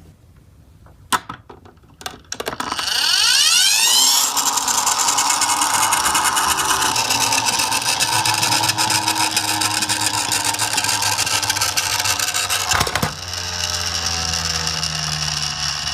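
Toy car whirring and rattling as it runs. After a quiet start with a single click, the whir starts about two and a half seconds in and rises quickly in pitch, then holds steady. A click about thirteen seconds in is followed by a quieter, lower whir.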